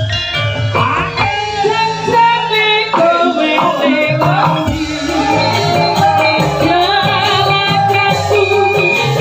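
Live Javanese music: a female sinden sings a sliding, ornamented vocal line over steady instrumental tones and drumming.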